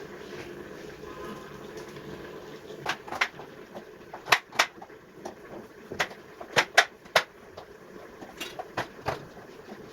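Scattered sharp clicks and light knocks of kitchen items being handled and set down, over a steady low background hiss.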